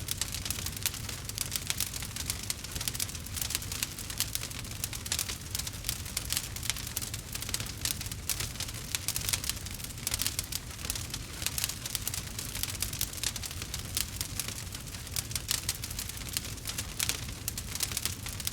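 Campfire crackling: a dense, irregular stream of small sharp pops and snaps over a low steady rumble of the burning fire.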